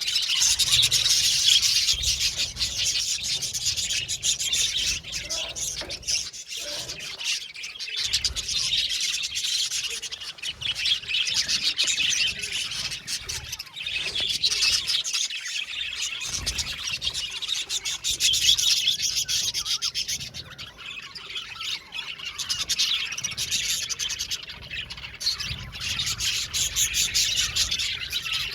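A colony of budgerigars chirping and warbling, many birds at once in a dense, continuous chatter.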